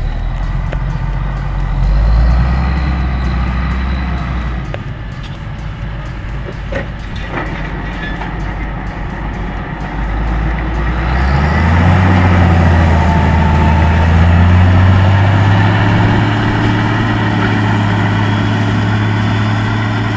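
IHC 1455 XL tractor's six-cylinder diesel engine running under load while pulling a maize seed drill; about halfway through the engine note rises in pitch and grows louder, then holds steady.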